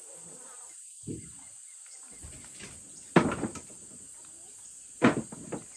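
Split firewood being dropped onto a stack: two loud wooden knocks about two seconds apart, each clattering on briefly, with a softer knock about a second in. A steady insect drone runs underneath.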